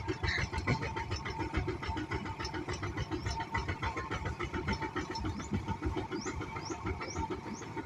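Engine running steadily with a rapid, even chugging.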